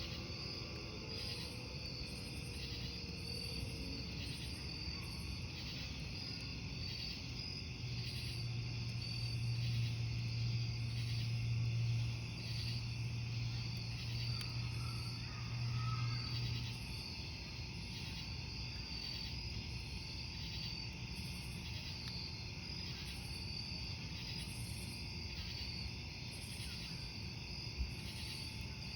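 Crickets chirping in a steady, evenly pulsing rhythm over a wood campfire, with a sharp pop near the end. A low hum swells for several seconds in the middle.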